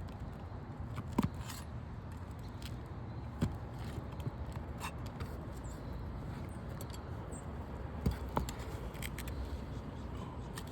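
A few sharp taps and clicks of a flat bar prying at asphalt roof shingles and their nails, spaced seconds apart, over a steady low rumble.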